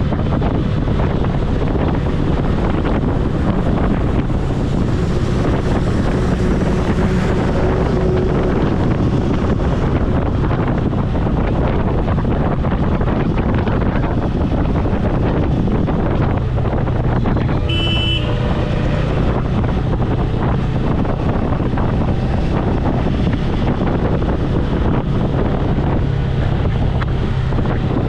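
Motorcycle engine running under way, with heavy wind rushing over the helmet-mounted microphone. A short horn beep sounds about two-thirds of the way through.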